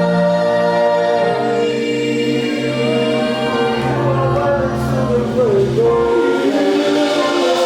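Gospel worship music: voices singing long held notes over sustained chords, with a bending vocal run about five seconds in.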